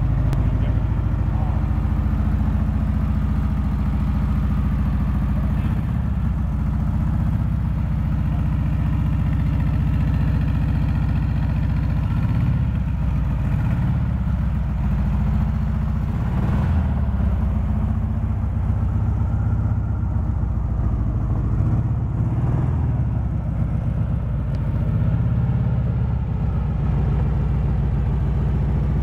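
Air-cooled Volkswagen flat-four engine in an MG replica kit car running at idle, with a few brief throttle blips that lift the pitch for a moment.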